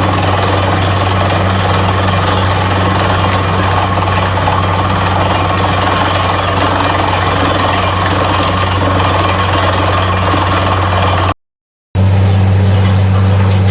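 A borewell drilling rig's heavy engine runs steadily, a loud, unchanging deep drone with a noisy roar over it. The sound cuts out completely for about half a second near the end.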